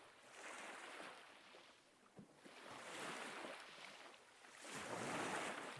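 Ocean waves breaking and washing on a shore: a soft surf hiss that swells and ebbs, about three swells in a row.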